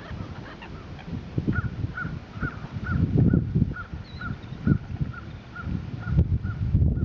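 A bird calling a steady series of short, even, clear notes, about two a second, starting about a second and a half in. Under it runs a louder low rumbling noise on the microphone.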